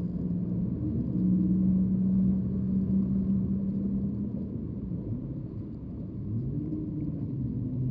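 A passing motor vehicle's engine droning at a steady pitch, loudest in the first half. Its pitch then shifts up and down in the second half.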